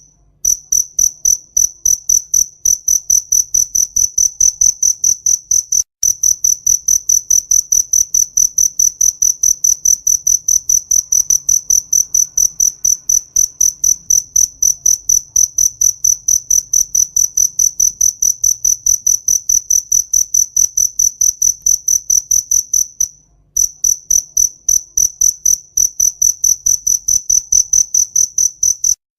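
A cricket chirping: a high, pure, rapidly pulsed trill, repeated evenly several times a second, with a couple of brief breaks.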